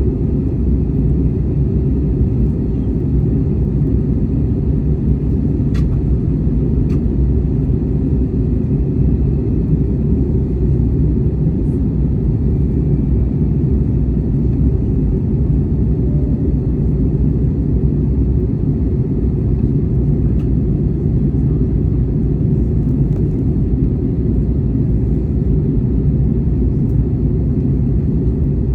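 Steady low rumble of an airliner cabin on its landing approach: engine and airflow noise, unchanging throughout, with a couple of faint clicks about six seconds in.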